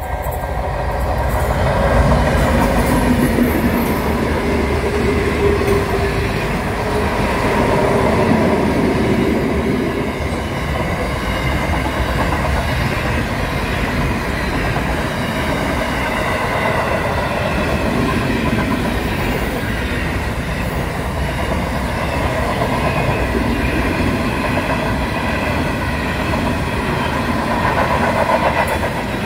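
Aurizon intermodal freight train passing at speed: the diesel locomotives' engines run past in the first ten seconds or so, then comes the steady noise of the container wagons' wheels rolling on the rails, with a high ringing from the wheels.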